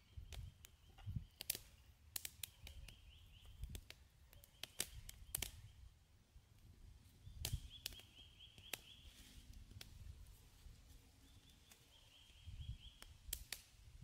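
Scattered sharp clicks and crackles at irregular intervals, with a small bird's high trill repeating every few seconds in the background.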